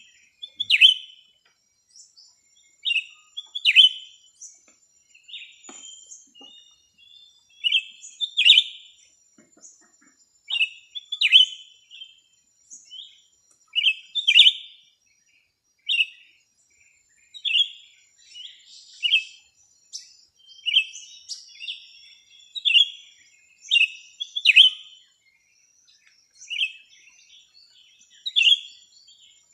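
Small songbird giving short, sharp chirping calls, often in pairs, repeated every one to two seconds, over a faint, high, steady trill.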